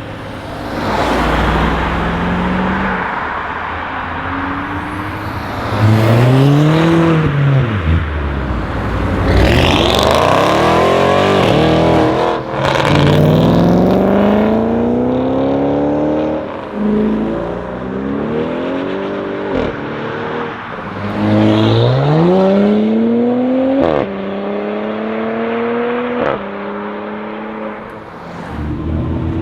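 BMW 440i's tuned 3.0-litre turbocharged straight-six, running through a catless downpipe and M Performance exhaust, accelerating hard through several gears. Its pitch climbs steadily and drops back at each upshift, with sharp cracks at some of the shifts.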